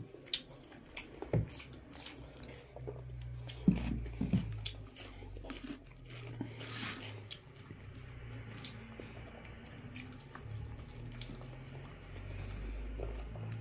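Two people eating with their hands: close-up chewing and mouth sounds with scattered sharp clicks and soft knocks, over a low steady hum.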